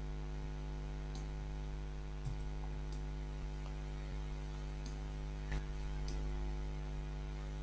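Steady electrical mains hum picked up by the recording microphone, with a few faint scattered clicks of a computer mouse as the modelling work goes on.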